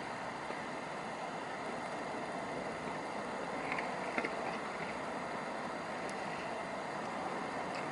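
Steady outdoor background noise, like distant traffic, with a few faint ticks about four seconds in.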